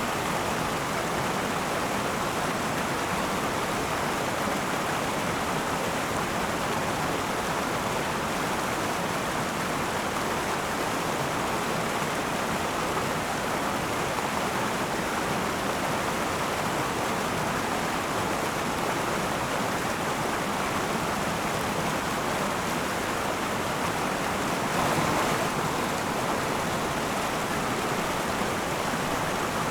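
River water flowing over rocks, a steady rushing babble, with a brief swell about 25 seconds in.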